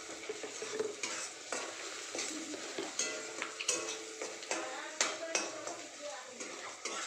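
Onions and ground spices sizzling as they fry in oil in a pan, stirred with a spatula that knocks and scrapes against the pan every second or so.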